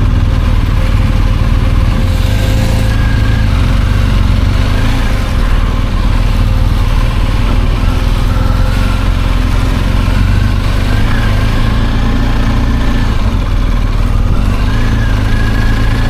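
BMW R 1250 GS boxer-twin motorcycle engine running steadily.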